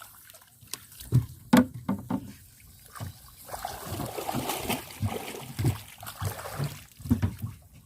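Water splashing and trickling around a small fishing boat, with irregular knocks and thumps against the boat.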